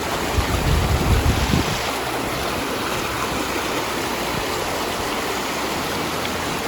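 Troll Falls, a waterfall, rushing steadily as an even noise of falling water, with extra low rumble in the first couple of seconds.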